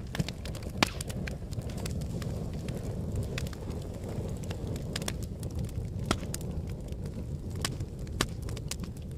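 Volcanic eruption or lava flow: a steady low rumble with irregular sharp cracks and pops, the loudest just under a second in and another near the end.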